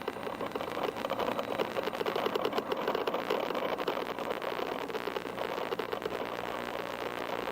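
FPV quadcopter's electric motors and propellers buzzing, a rough, fast-ticking drone whose pitch wavers slightly with throttle; it grows a little louder after the first second and eases off toward the end.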